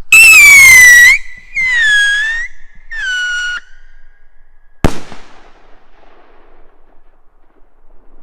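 Three-stage screaming firework rocket (Scream Rocket 2): three whistles in a row, each falling in pitch and each shorter and quieter than the one before, then a single sharp bang about five seconds in with a short fading tail.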